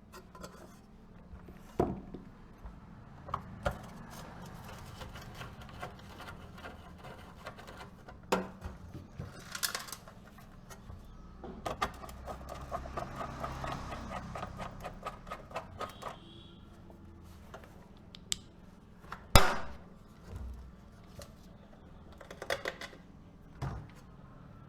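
Clicks, knocks and rattles of small parts and hand tools being handled, over a low steady hum, with a run of rapid ticking in the middle and one sharp knock about three quarters of the way through.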